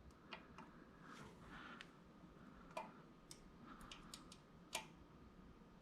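Faint, scattered clicks and light taps of parts being handled during the assembly of a plotter stand, over a quiet room.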